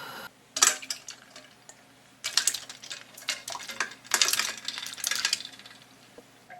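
Kitchen clatter: a steady hum cuts off just as it begins, a sharp click follows about half a second in, then two runs of clinking and rattling as dishes and utensils are handled.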